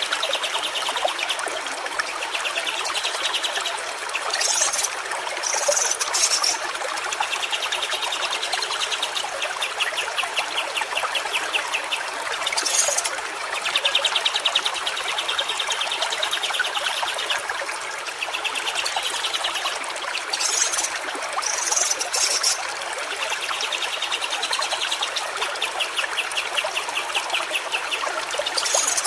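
Steady babbling of flowing stream water, with a fast pulsing trill repeating every few seconds and brief high chirps now and then.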